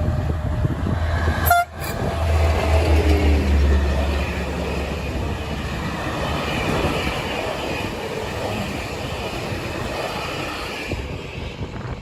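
A train passing on the line: a deep rumble that eases after about four seconds, then the steady rolling noise of the wheels on the track.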